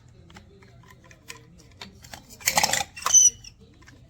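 Scattered small clicks and knocks of handling, with a short loud rattling scrape about two and a half seconds in and a brief squeaky scrape just after it.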